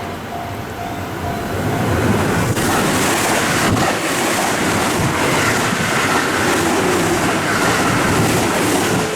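JR West Kyoto Line electric train running along the station platform. The rumble of wheels and motors builds about two seconds in and stays loud, with a couple of sharp wheel knocks over rail joints.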